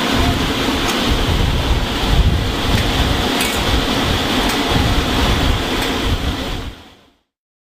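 Wind buffeting the microphone: a gusty low rumble with a hiss over it, cutting off about seven seconds in.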